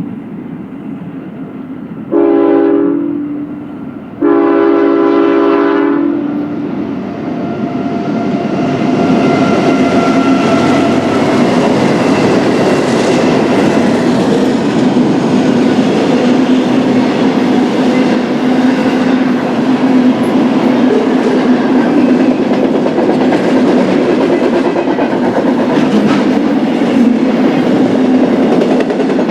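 BNSF freight locomotive's air horn sounding two blasts, a shorter one about two seconds in and a longer one about four seconds in. Then the intermodal train passes: the locomotive running and the cars' wheels clacking over the rails, building up and holding steady.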